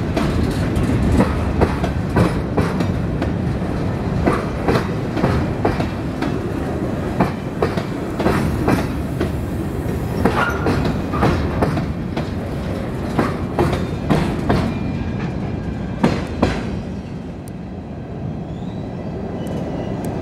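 Covered hopper cars of a freight train rolling past at close range, a steady rumble broken by sharp clickety-clack clicks as the wheels cross rail joints. The sound grows softer for the last few seconds.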